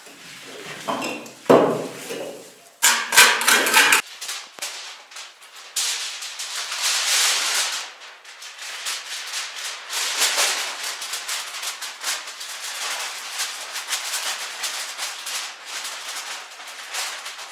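Rustling and crinkling with many small clicks, like stiff sheet material being handled, following a few sharp knocks in the first four seconds.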